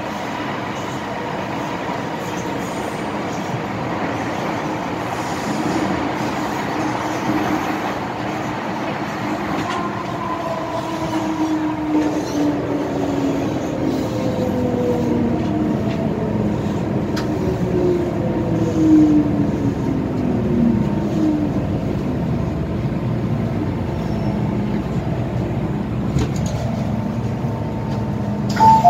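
MTR M-Train electric multiple unit running on the rails, its motors whining in several tones that fall steadily in pitch from about ten seconds in as the train slows. A short, bright two-note tone sounds right at the end.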